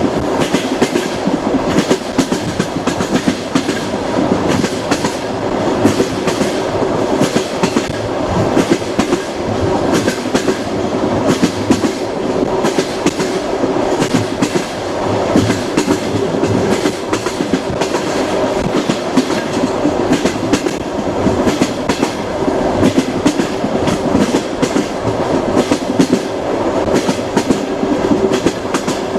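A moving train's wheels clicking over rail joints, with a steady rumble and a constant hum underneath.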